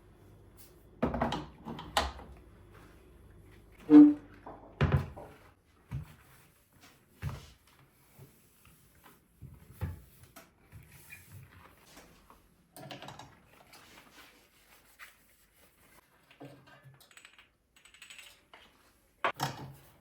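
Irregular knocks and clunks of household objects being handled and set down during cleaning, about a dozen over the stretch. The loudest come about four and five seconds in, one with a short ringing note.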